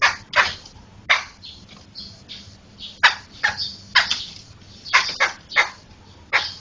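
Poksay (laughingthrush) calling: a loud string of short, harsh, sharp notes, several a second in irregular groups, over a faint steady hum.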